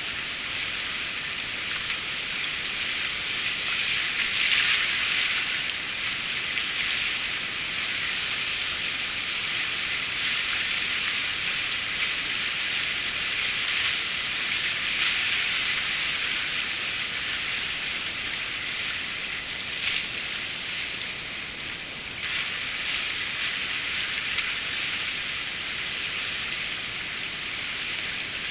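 River water rushing and splashing around a kayak, a steady hiss.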